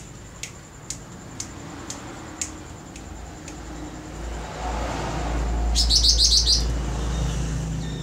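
Birds calling: a short, sharp chirp repeats about twice a second and stops about two and a half seconds in. Later a fast trill of about eight high notes, the loudest sound, comes over a low rumble.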